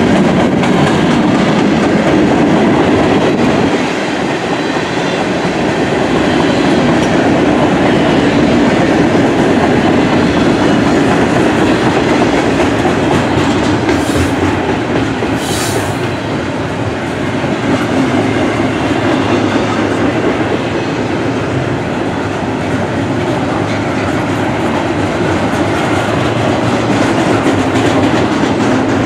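Freight train rolling past: a steady rumble and clatter of steel wheels on the rails as open-top cars and then double-stack container well cars go by. Two brief high hisses come about fourteen and fifteen and a half seconds in.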